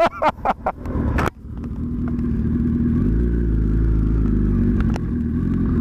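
Motorcycle engine running steadily, getting louder and deeper about three seconds in, after a few short sharp knocks in the first second.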